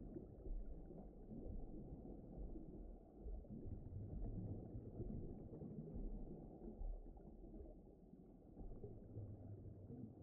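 Faint, low, muffled rumbling noise that swells and ebbs gently, with nothing above it: a soft ambient sound bed.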